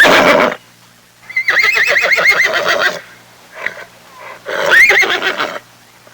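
An animal calling three times with loud, wavering cries. The middle cry is the longest, about a second and a half.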